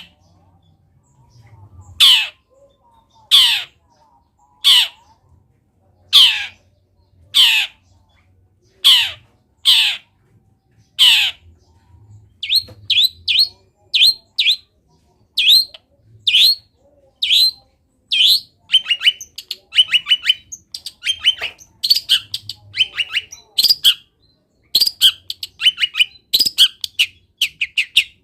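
Long-tailed shrike (cendet) singing: a series of loud calls that sweep downward in pitch, about one every second and a half. About halfway through it switches to quicker, shorter notes and rapid chattering phrases, its mimicry of wild birds' songs.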